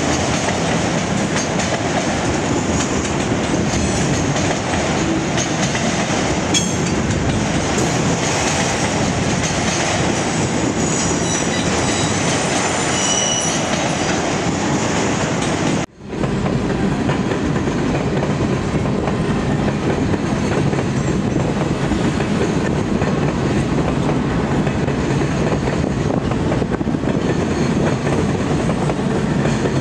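Freight train cars rolling past on the rails: a steady wheel rumble with clickety-clack, and a few brief high squeals a little before the midpoint. The sound drops out for an instant about halfway through, then the same rolling rumble resumes.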